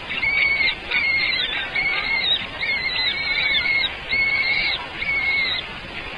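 Birds calling repeatedly in a rapid series of short, arched, high calls, about two a second and partly overlapping, which stop shortly before the end.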